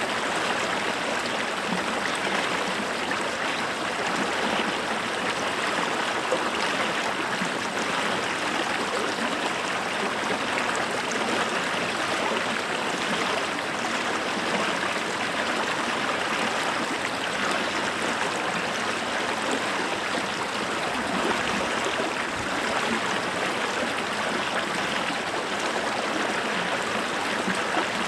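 A small creek running steadily over stones, a continuous babbling rush of water.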